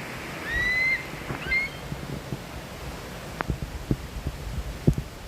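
A bird's high, clear whistled call: one held note of about half a second that rises slightly, followed by a couple of short notes. Under it run low wind rumble and scattered thumps on the microphone, the sharpest one near the end.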